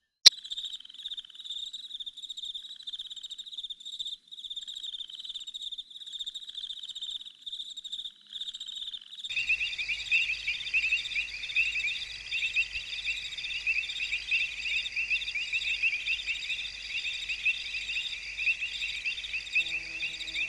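Crickets chirping in quick pulsing trains, opening with one sharp click. About nine seconds in the sound cuts abruptly to a louder, denser night chorus of trilling crickets and frogs.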